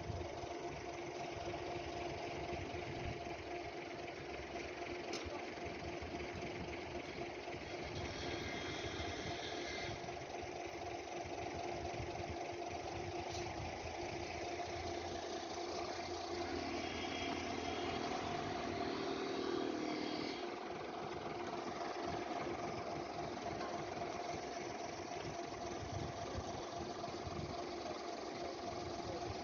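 A machine running with a steady, even hum, with a few other brief sounds passing over it.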